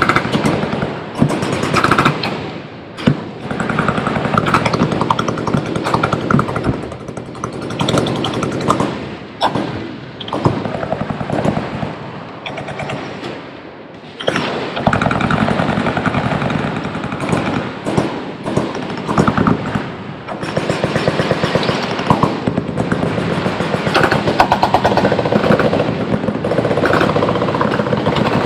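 Several machine guns firing full-auto at once, long overlapping bursts of rapid shots, with a short lull about halfway through before the firing picks up again.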